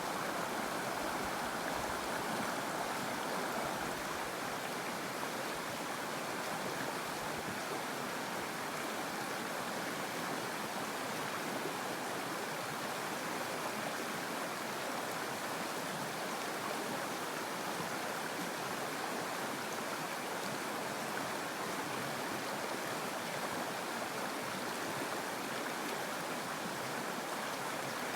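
Mountain stream water flowing in a steady, even rush.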